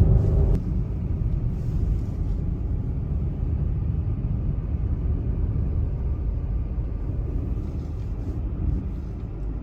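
Car driving on a snowy road, a steady low rumble of engine and tyres; a brief rising engine tone at the very start fades out about half a second in.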